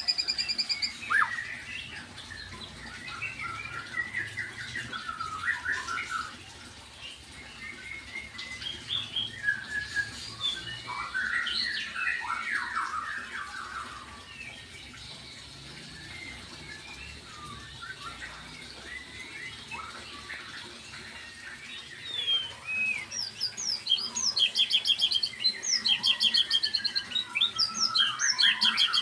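Small birds chirping and calling in short sweeping notes, thinning out to a sparse stretch in the middle, then breaking into a fast run of rapid repeated chirps near the end.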